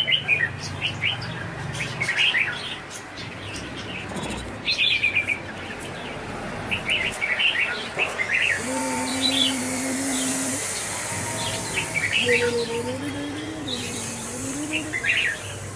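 Small birds chirping, short high chirps coming every second or so. A low steady tone is held for about two seconds around the middle, and a low wavering tone follows a little later.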